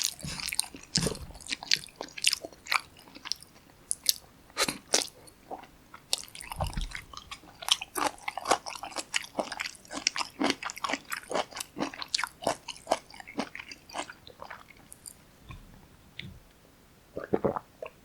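Close-miked mouth eating sounds from a meal of Chapagetti black bean noodles and kimchi: a quick stream of wet chewing smacks and crunches, thinning out after about fourteen seconds.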